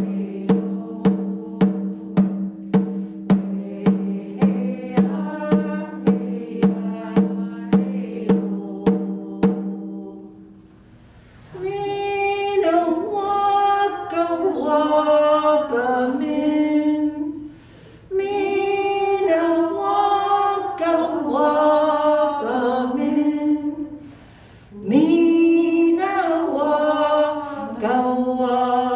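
A drum beaten steadily about twice a second over a held tone, stopping about ten seconds in; then a woman sings a song in Ojibwe unaccompanied, in long phrases with two short breaths between them.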